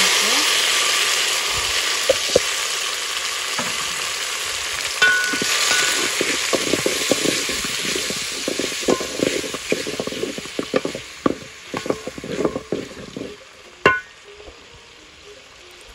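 Diced tomatoes and garlic sizzling in hot oil in a metal saucepan, loud at first as they hit the oil and slowly dying down, while a wooden spoon stirs and scrapes against the pan. A sharp knock comes near the end.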